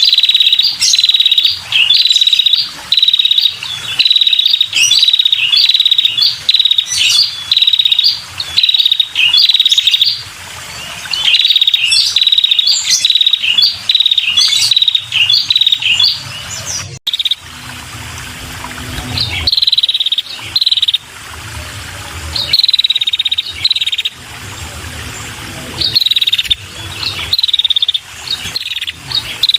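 Female red-headed prenjak calling in a fast, insistent string of short chirps, about two a second, each dropping slightly in pitch. About halfway through there is a brief break, after which the calls come more sparsely. This is a call used to lure male prenjak.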